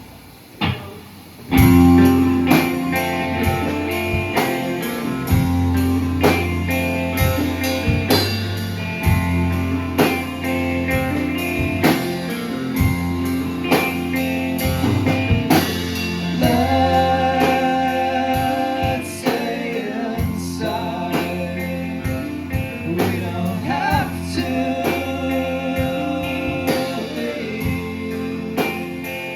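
Live band playing a song: electric guitar, bass and drum kit with sung vocals. After a brief drop at the start, the full band comes in about a second and a half in.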